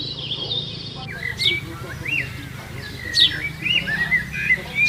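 Birds chirping: a stream of short warbling whistles, with a few sharp downward-sweeping calls standing out, over a steady low hum.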